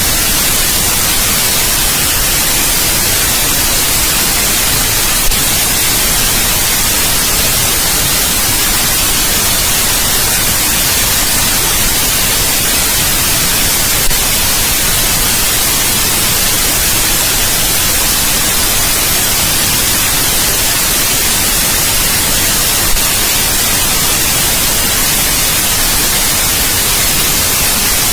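Steady, loud white noise: an even, unchanging hiss across all pitches. Three faint clicks break it, about nine seconds apart.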